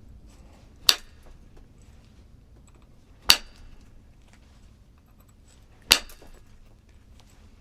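Flintknapping: three sharp, ringing strikes on a stone piece, about two and a half seconds apart, each knocking flakes off to work out a hinge fracture.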